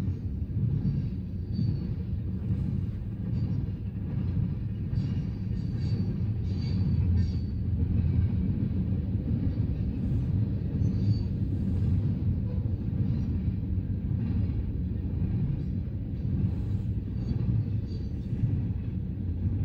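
A CN train's cars rolling past on the track with a steady low rumble. Short, faint high-pitched wheel squeals come now and then.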